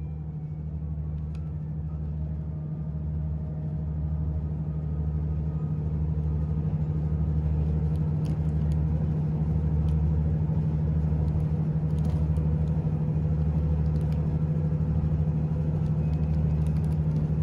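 Diesel railcar running, heard from inside the passenger car: a steady low engine drone over a lower rumble that throbs about once a second. It grows louder over the first several seconds as the train picks up speed, then holds steady.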